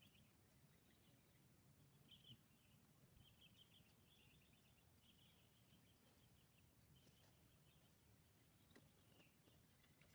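Near silence, with faint, repeated high chirping from small wildlife coming in short clusters every second or so.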